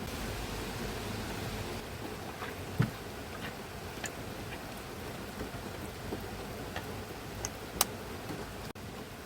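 Rain falling steadily, with scattered louder drops ticking on a nearby surface.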